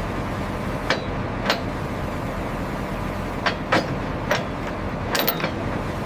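Heavy equipment engine running steadily, with a series of short, sharp knocks and clanks scattered over it.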